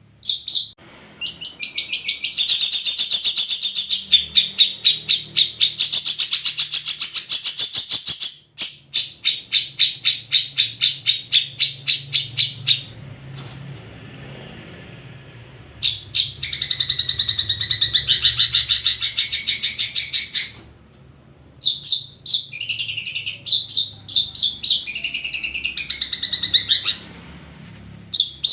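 Long-tailed shrike (cendet) song: bursts of rapid, loud, repeated high chattering notes lasting a few seconds each, broken by short pauses.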